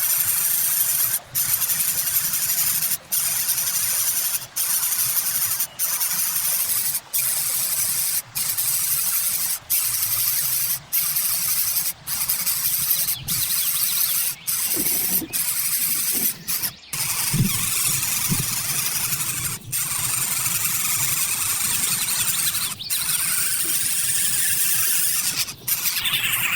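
Birds calling in a continuous high, hissing squeal, broken by short gaps about every second and a half.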